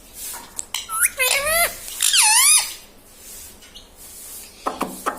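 Ringneck parakeet calling: two loud squawks with swooping, bending pitch about one and two seconds in, then a few short quick notes near the end.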